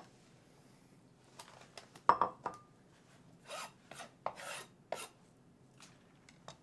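Kitchen knife cutting on a cutting board: a few sharp knocks of the blade hitting the board, the loudest about two seconds in, mixed with short rasping slicing strokes.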